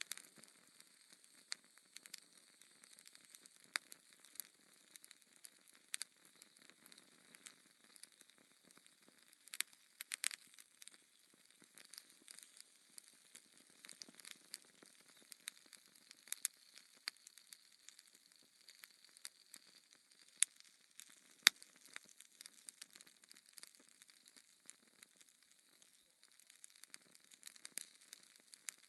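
Wood fire crackling in a fireplace: a faint steady hiss with irregular sharp pops and snaps scattered throughout, the two loudest a little past the middle.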